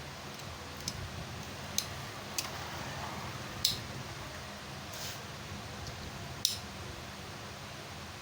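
Sharp metallic clicks and taps, about six spread over several seconds, as motorcycle clutch parts are handled and fitted, over a steady low background hum.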